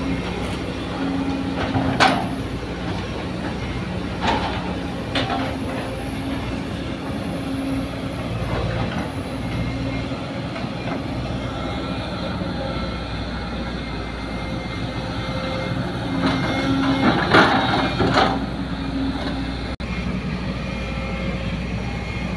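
Heavy diesel construction machinery, an excavator working beside a dump truck, running steadily. Sharp knocks cut through about two seconds in and twice more around four to five seconds, and a louder cluster of knocks comes near the seventeen-second mark.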